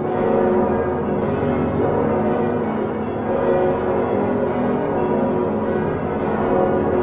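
Large swinging church bells of the Utrecht Dom tower, including Geert van Wou's 1505 bronze bells, ringing together as a full peal. Many deep and higher bells strike in a dense, overlapping clang with no pause.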